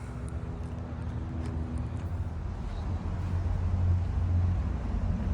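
A vehicle's low, steady hum that grows slowly louder.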